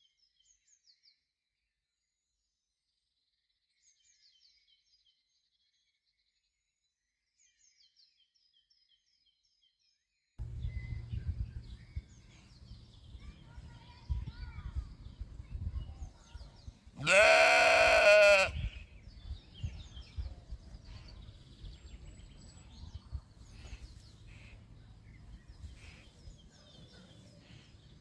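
A single loud bleat, wavering in pitch for about a second and a half, in the middle of low outdoor rumble. Before it, faint small-bird chirps come in short repeated runs over near silence.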